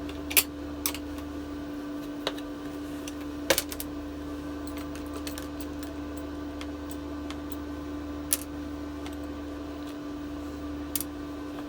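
A few sparse, sharp clicks and taps of small metal parts such as washers and bolts being handled, over a steady hum.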